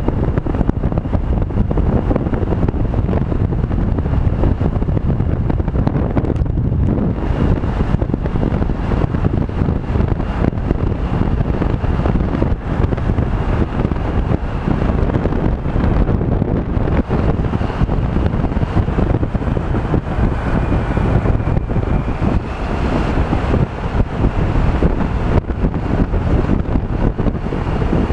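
Steady wind rumble on the microphone over the running of a Honda PCX 125 scooter and its road noise, as heard while riding.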